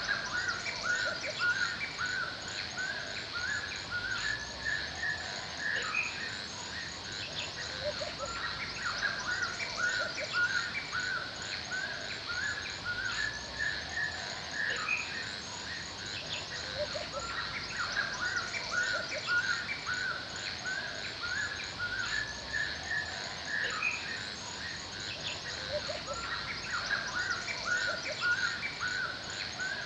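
Forest ambience: many birds chirping over and over in quick, overlapping calls, with a steady high hiss underneath.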